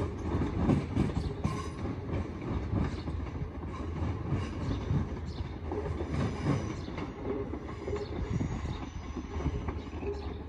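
Passenger multiple-unit train running away over the track and points, wheels clattering on the rails with some squeal from the wheels, slowly fading as it goes.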